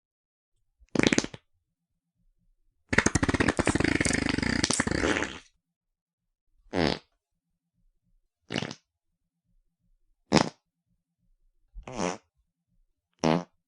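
A string of seven separate fart sounds. A short one comes about a second in, then a long one of about two and a half seconds made of rapid flutter, then five short ones a second or two apart.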